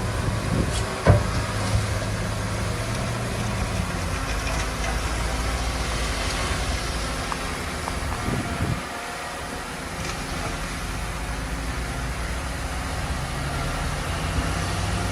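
Heavy diesel engine of earthmoving machinery running steadily, with a sharp knock about a second in. The low engine note drops off a little past the middle and then carries on more quietly.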